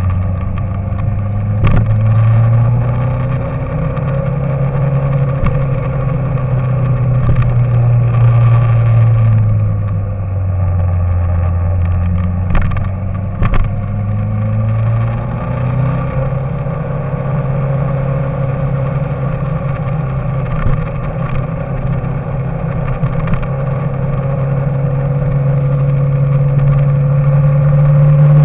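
An engine running steadily, its pitch shifting down and back up a few times before holding and then rising slightly near the end. A few sharp clicks sound over it.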